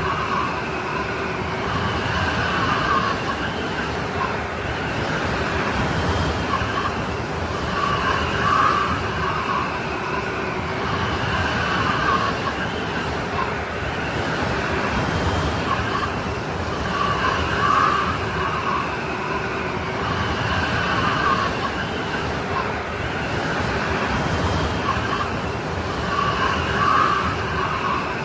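Strong wind blowing in a snowstorm, a steady roar with a howling note that swells in gusts every few seconds.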